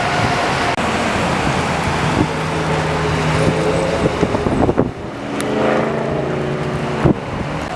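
Storm wind roaring over the microphone with road traffic noise. A droning pitched sound with several overtones comes in about two seconds in and fades near the end, and there are a couple of sharp knocks.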